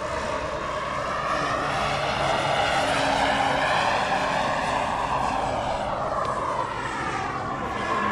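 Radio-controlled scale model helicopter in flight, its engine and rotor noise swelling and easing as it moves past, with a sweeping, phasing change in tone.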